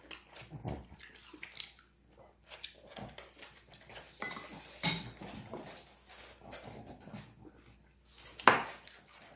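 Cutlery clinking and tapping against bowls and dishes as people eat, in scattered small clicks, with one louder knock near the end.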